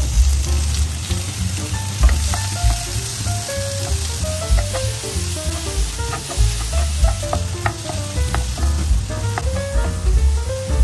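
Diced onions frying in butter in a nonstick frying pan, sizzling steadily as a wooden spatula stirs them.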